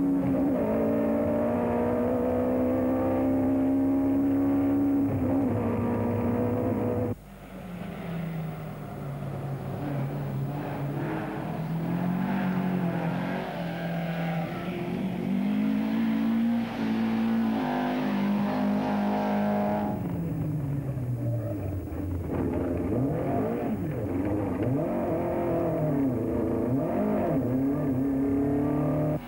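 Rally car engines at full throttle on a special stage. The note climbs and drops with gear changes and lifts. The sound cuts off abruptly about seven seconds in and again at about twenty seconds, after which the engine pitch rises and falls in quick swoops, about once a second.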